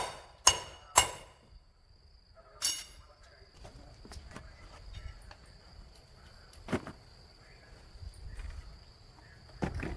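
Sharp metallic clangs, three in the first second and another near three seconds, each ringing briefly like a steel tool striking something hard, followed by lighter scattered knocks. A thin steady high-pitched whine runs underneath from about three seconds on.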